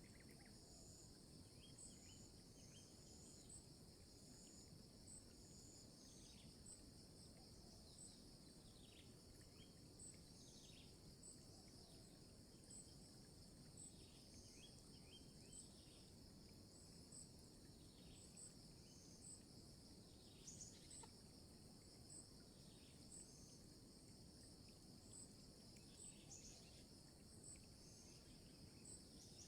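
Faint outdoor insect chorus: a steady high buzz with a high chirp repeated evenly about once a second, and short downward-sliding calls, likely birds, every second or two.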